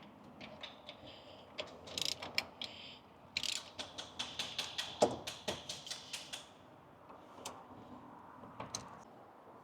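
Hand ratchet clicking as it turns a fastener, in an even run of about five clicks a second, with scattered single clicks before and after.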